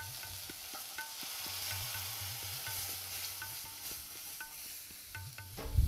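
Tomato purée and spices sizzling in hot oil in a karahi as they are stirred. The sizzle starts as the purée goes in, with light clinks of the spoon against the pan and a low thump at the very end.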